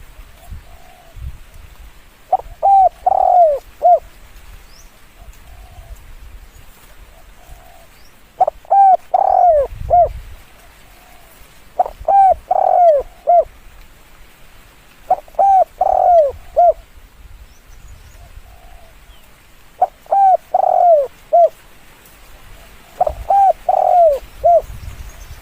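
Spotted dove cooing: six repeated phrases a few seconds apart, each a short run of coos around one longer, falling middle note. Fainter single coos sound between the phrases.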